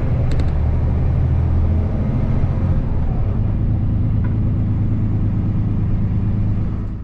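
Truck engine running under way with road noise, a steady low drone whose deepest note changes about two seconds in.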